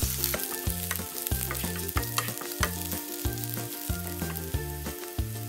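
Minced garlic and ginger sizzling in hot oil in a nonstick frying pan over high heat, stirred with a wooden spatula. Soft background music with a steady beat plays underneath.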